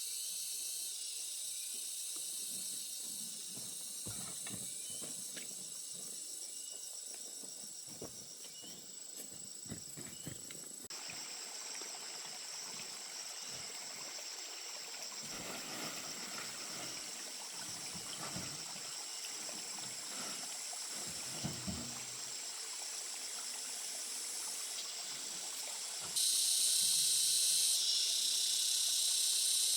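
Water trickling and running steadily, with scattered light knocks. Near the end a louder rush of water starts suddenly.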